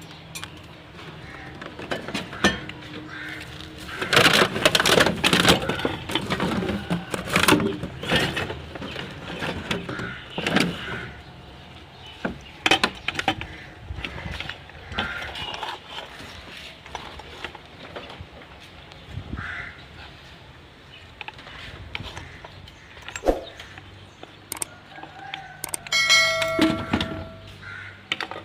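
Irregular clicks, knocks and rattles of small hard objects being handled, busiest a few seconds in, with a short pitched sound near the end.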